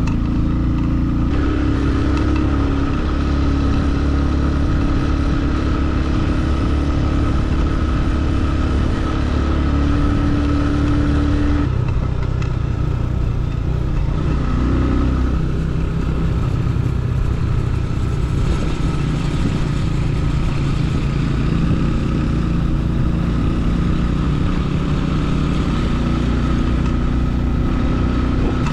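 Motorcycle engine running steadily while riding, with a haze of wind noise over it. The engine note changes about a second in and again about twelve seconds in.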